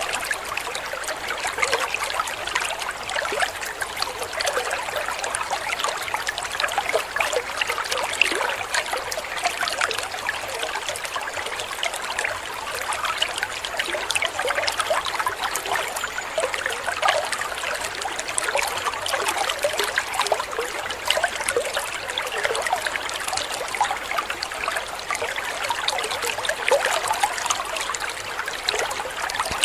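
Running water of a small waterfall, trickling and splashing steadily, a light, bright splashing with little low rumble.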